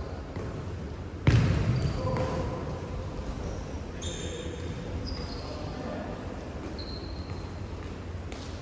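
Futsal ball being played on an indoor court, with one sharp, loud ball thump about a second in that rings out in the hall. Short high squeaks come and go, over a murmur of players' voices.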